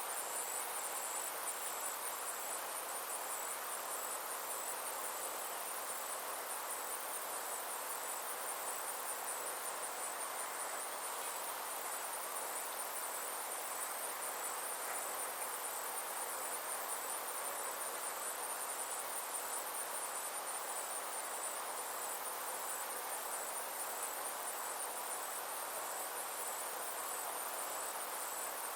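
Summer insect chorus: a continuous high, pulsing trill over a steady, soft rushing background.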